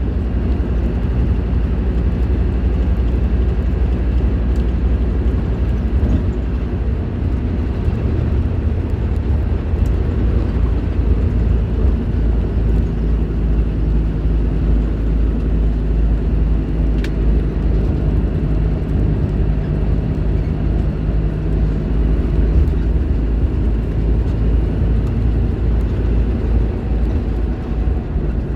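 Scania K310IB bus's rear-mounted 9-litre five-cylinder diesel engine running steadily, its note shifting slightly now and then.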